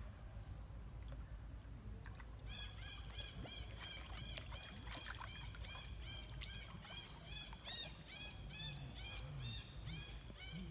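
A fast, even series of high chirping animal calls, about three a second, starting a couple of seconds in and running until near the end. A few light clicks and a low rumble sit underneath.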